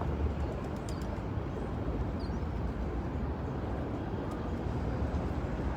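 Steady low outdoor rumble, like wind or distant traffic, with a few faint high bird chirps about a second in and again a little after two seconds.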